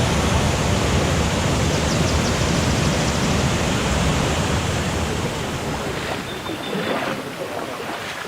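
Rushing water of a rainforest stream or waterfall: a steady, full roar that eases somewhat toward the end, with a short high steady note about six seconds in.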